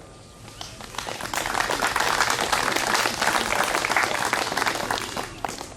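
A crowd applauding, many hands clapping at once: it builds about a second in, holds steady, and fades away near the end.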